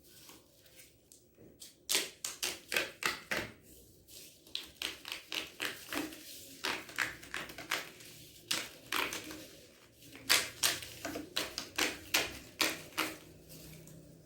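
Pre-cut cardboard pieces being punched out of a workbook page: a run of sharp little snaps and tearing clicks, coming irregularly in quick clusters.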